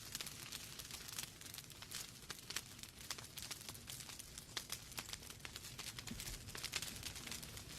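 Wood fire crackling in a fireplace: burning logs giving off many irregular sharp pops and snaps over a low steady rumble of the flames.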